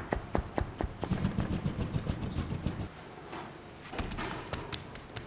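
A rapid series of sharp knocks, about four a second at first and then irregular, over a low rumble in the middle.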